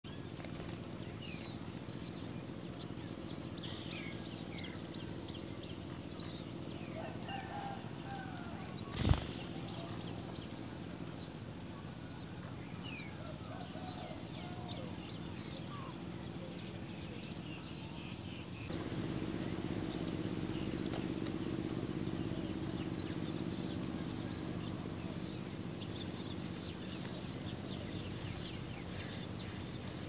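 Small birds giving rapid, high, downward-sweeping chirps, several a second, with a lull in the middle. A single sharp knock sounds about nine seconds in, over a steady low hum that gets louder a little past halfway.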